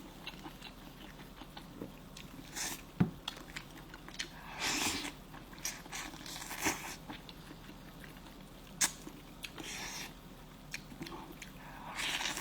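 Close-up eating sounds of a person chewing hotpot food, in short wet bursts, with a few sharp clicks of utensils, the loudest about three seconds in and again near nine seconds.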